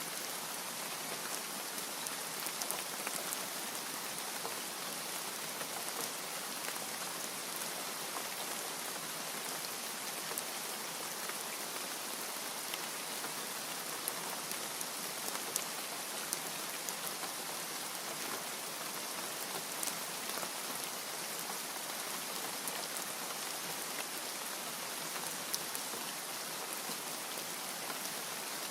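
Steady rainfall, a dense even hiss of rain with individual drops pattering on a surface.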